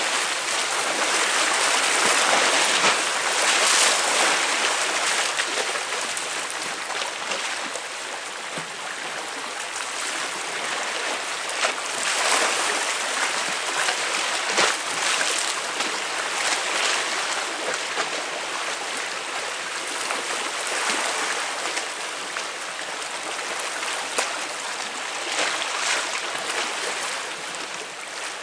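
Sea waves breaking and splashing against concrete tetrapods, a steady wash that swells and eases every few seconds, with sharper splashes now and then.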